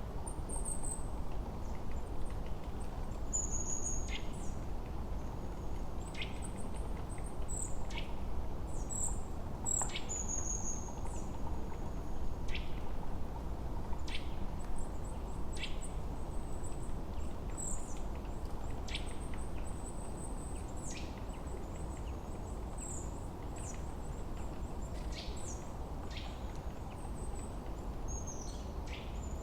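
Forest birds chirping and calling throughout, with short high chirps and quick downward-sweeping calls, over a steady low rushing background.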